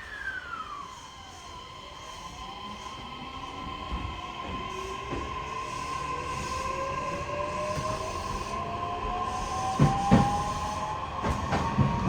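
Electric commuter train pulling away, heard from inside the car: the traction motors give a whine that climbs steadily in pitch as it speeds up, over a steady electrical tone. Near the end come a few knocks from the wheels passing over rail joints.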